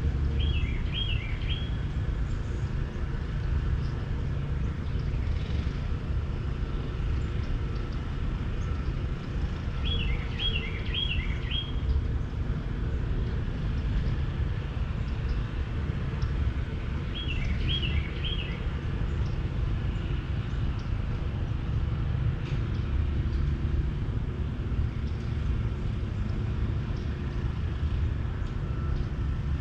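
Outdoor ambience with a steady low rumble, over which a bird gives a short phrase of three or four quick chirps, three times.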